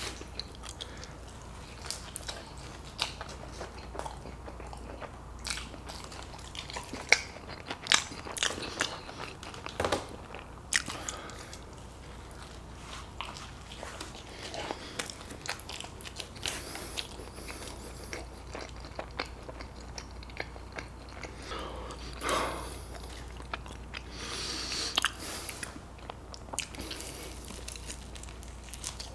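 Close-miked eating sounds: a man biting and chewing pepperoni pizza crust and then a buffalo wing, with crunchy bites and many short sharp mouth clicks.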